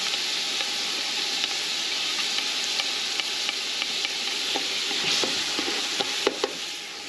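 Diced onion and chile pepper sizzling as they fry for a sofrito in a large aluminium pot. A metal spoon scraping and clinking against a plate and the pot gives scattered sharp clicks as the chile is pushed in and stirred, more of them in the second half.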